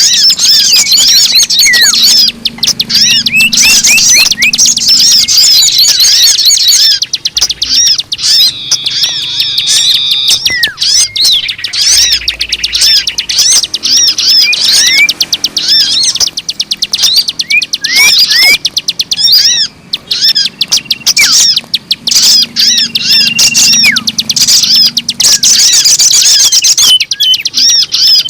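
Loud, dense chorus of many small songbirds chirping and twittering rapidly over one another, a bird-lure recording of the kind played to draw wild birds in.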